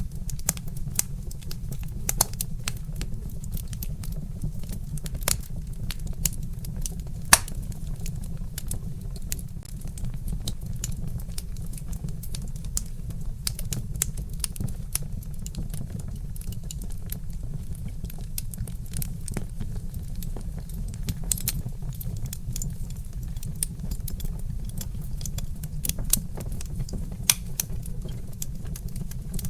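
Wood fire crackling, with irregular sharp pops and snaps of burning logs over a steady low rumble.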